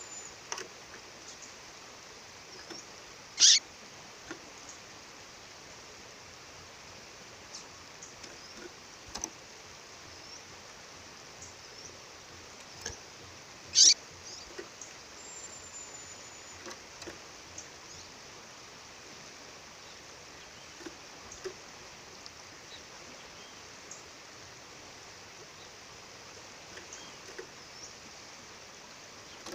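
A female songbird's calls: two loud, sharp, high-pitched chips about ten seconds apart, with scattered faint chirps between, over the steady rush of a waterfall.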